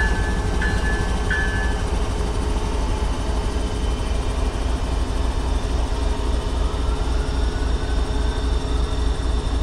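Freight train's hopper cars rolling slowly past, a steady low rumble of steel wheels on rail. A few evenly spaced rings of a high tone sound at the start and stop about two seconds in.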